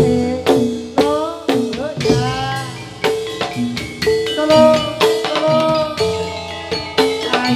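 Gamelan accompaniment for a jathilan horse dance: metallophones strike steady pitched notes about twice a second over drumming.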